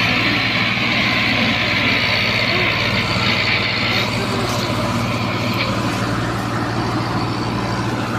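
Tractor engine running steadily under load, hauling a loaded trolley, with a hiss over it that eases about halfway through.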